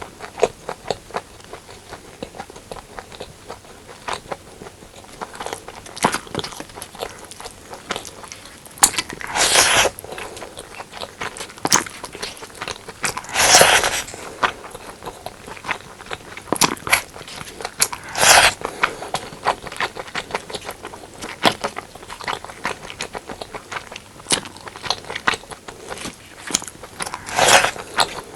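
Close-miked eating of braised pork and white rice: steady chewing with many small wet mouth clicks, and four louder bursts, each about half a second to a second long, spread through.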